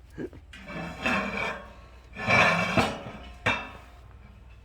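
Stainless-steel parts of a homemade wood stove being handled: two scraping stretches of metal rubbing on metal, followed by a couple of sharp clinks.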